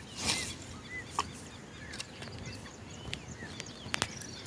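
Several wild birds chirping and calling at once, short high chirps scattered throughout. A brief swishing noise just after the start is the loudest sound, with a few sharp clicks later on.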